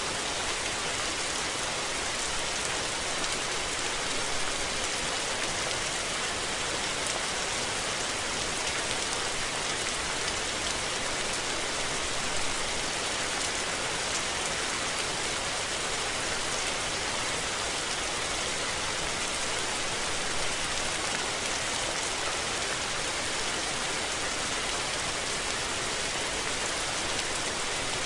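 Steady rain falling, an even hiss of countless drops that holds at the same level throughout.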